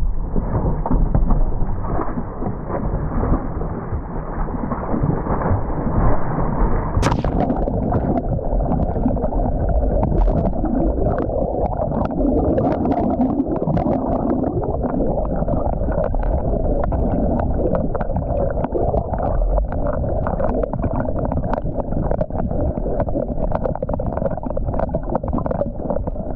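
Loud, muffled rush and gurgle of river water, with many small clicks and knocks from about seven seconds in.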